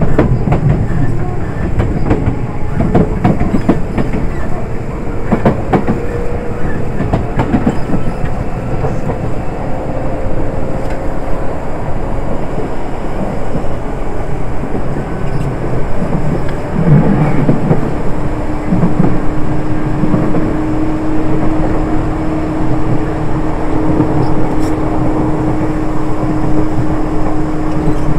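Enshu Railway 1000 series electric train running, heard at the gangway between cars: a steady rumble with wheels clicking over rail joints. A faint whine rises slowly through the first half, and a steady hum comes in about two-thirds of the way through.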